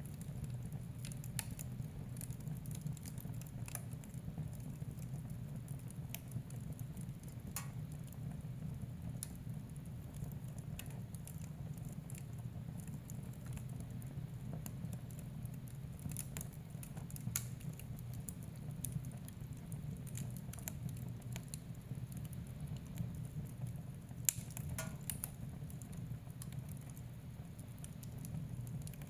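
Wood fire in a fireplace crackling: irregular small pops and snaps over a steady low rumble of the burning fire, with a couple of sharper pops standing out.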